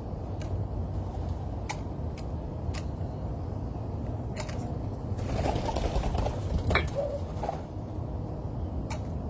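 A dove cooing a little past halfway, a few low notes over about two seconds, against a steady low rumble broken by a few sharp clicks.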